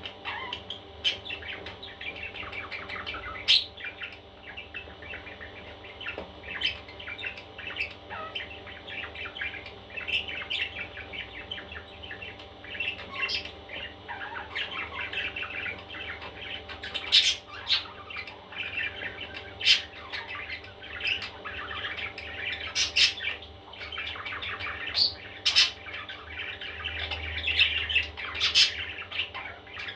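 Baby parrots chirping in a dense continuous chatter, with sharp louder squawks breaking out every few seconds.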